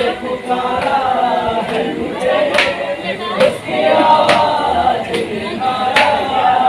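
Group of voices chanting a noha, a Muharram lament, in chorus, with sharp slaps of matam (hands beating on chests) about once a second.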